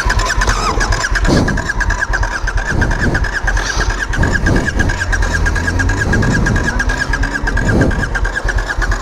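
Motorcycle's electric starter cranking the engine over steadily, a fast pulsing whine, without the engine catching; the bike's wiring has just burned.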